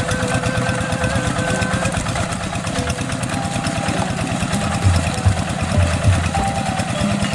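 Tractor engine running steadily with a fast even chug of firing pulses.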